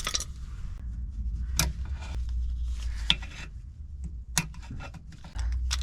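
A few sharp metallic clicks and some rubbing as tools and metal parts are handled, over a low steady hum.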